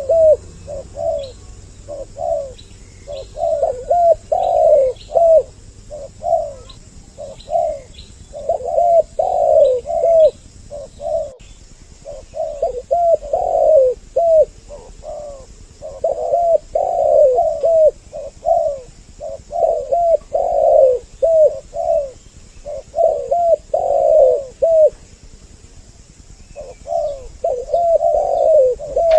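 Spotted doves cooing over and over in a dense, overlapping run of low coos, with a few short pauses, and faint high chirps of small birds in the background.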